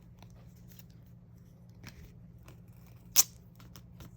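Light handling sounds of photo cards and their plastic sleeves: scattered soft ticks and rustles, with one sharp click about three seconds in.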